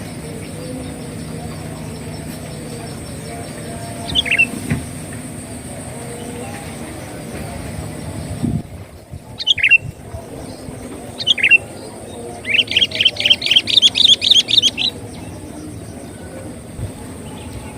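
Sooty-headed bulbul (kutilang) calling: a few short, high downward-sweeping notes spaced a few seconds apart, then a fast chattering run of notes lasting about two and a half seconds.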